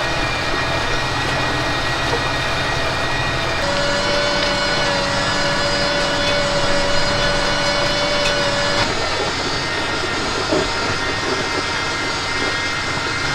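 Tractor engine running steadily while towing loaded bale trailers. Its pitch shifts about four seconds in and again near nine seconds.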